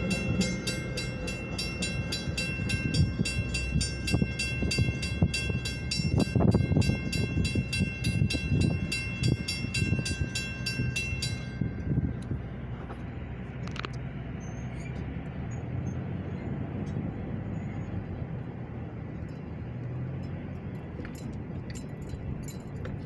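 Metra bi-level commuter train cars rumbling past a grade crossing while the crossing bell rings rapidly. About halfway through the bell cuts off as the train clears and the gates rise, leaving a low, steady background hum.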